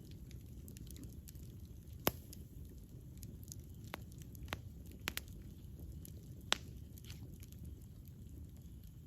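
Campfire burning with a low steady rumble and sharp, scattered crackles and pops, the loudest about two seconds in and again past six seconds.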